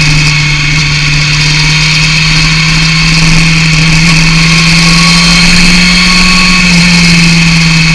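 Yamaha FZR 600 inline-four with a BOS aftermarket exhaust running at steady revs, a loud, even engine note that rises slightly a little past the middle and then settles.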